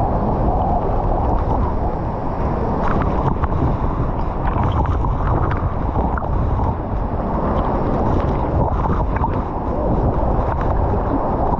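Waterfall's rushing water, a loud steady wash of noise heavy in the low end, with a few faint knocks.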